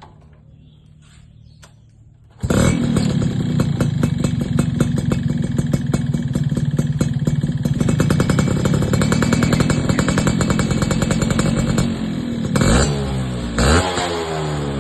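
Yamaha Alfa two-stroke single-cylinder motorcycle engine running through an aftermarket racing exhaust. It comes in abruptly about two and a half seconds in and runs steadily, then gets two short throttle blips near the end.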